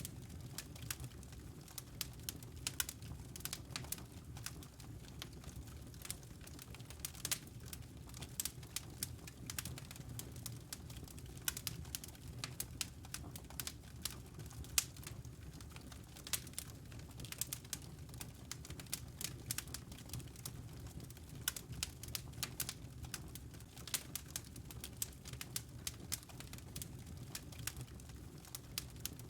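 Wood fire in a fireplace crackling, with many irregular sharp pops and snaps over a low steady hum.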